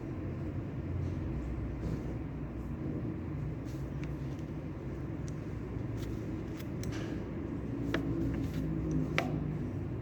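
Library room ambience: a steady low rumble with scattered small clicks and taps, a few of them sharper near the end.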